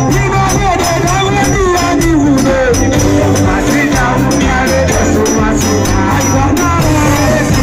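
Loud live band music with a singing voice over a steady bass line and rattling percussion with a regular beat.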